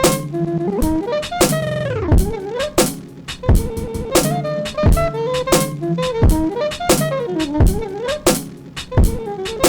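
Sampled beat music played live on a Roland SP-404 sampler: regular drum hits under a melodic line that bends and slides in pitch.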